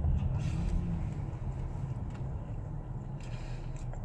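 Steady low road and engine rumble inside a moving car's cabin, with two faint, brief rustles about half a second in and about three seconds in.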